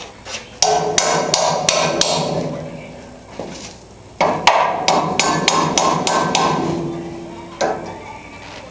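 Hand hammer striking metal on a truck's old motor mount, with two runs of ringing blows about three a second: five, a pause, then about eight more.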